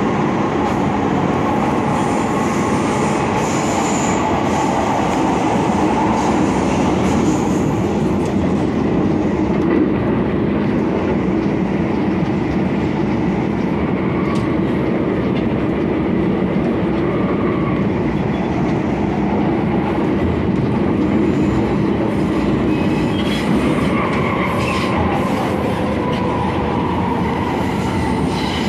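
MTR Kwun Tong line M-Train electric multiple unit running along the line, a steady rumble of wheels on rail with the hum of the traction equipment throughout.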